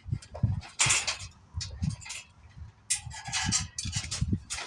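Irregular rustling, clinking and knocking as packing material and loose motorcycle parts are handled during unboxing.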